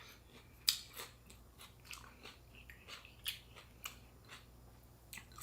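Close-miked chewing of fresh spring rolls with crisp raw vegetables: irregular small crunches and wet mouth clicks, the sharpest about two-thirds of a second in and again a little past three seconds.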